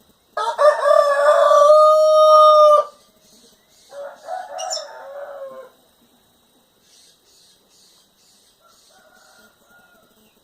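Rooster crowing: one loud, long crow ending on a held note, followed about a second later by a quieter second crow, with faint bird chirps afterwards.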